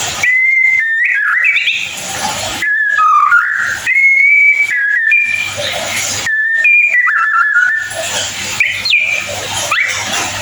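White-rumped shama singing: phrases of clear whistled notes, some held and some gliding up or down, with rough chattering between them.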